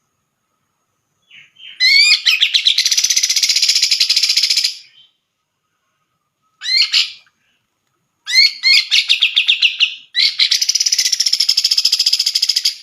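Cucak jenggot (grey-cheeked bulbul) singing loud, fast chattering phrases that open with quick sweeping notes. A long phrase starts about a second and a half in, a short one follows in the middle, and another long one runs on near the end.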